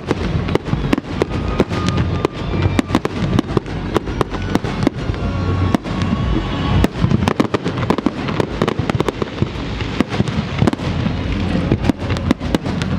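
Fireworks display: a fast, irregular run of bangs and crackles, several a second, with music playing underneath.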